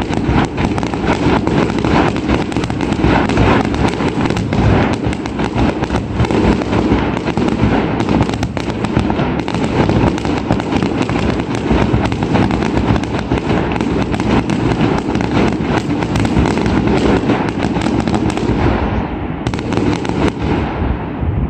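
Fireworks display: a dense, continuous barrage of rapid firework and firecracker bangs that thins out and dies away near the end.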